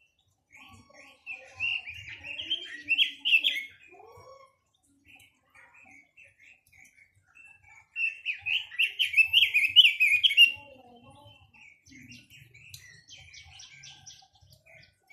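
A quế lâm songbird singing: two loud spells of fast chirping song, one near the start and one in the middle, with softer scattered notes between and after.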